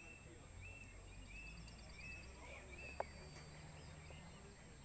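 Faint bird song: a run of short chirps repeating about twice a second, fading out after about three seconds, with a single sharp knock about three seconds in.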